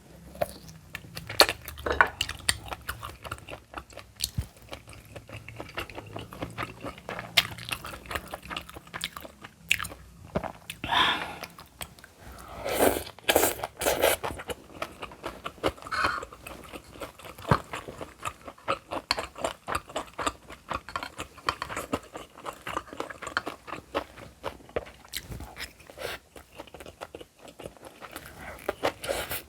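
A person eating close to the microphone: steady chewing with crunches and biting, many small irregular clicks and short wet bursts.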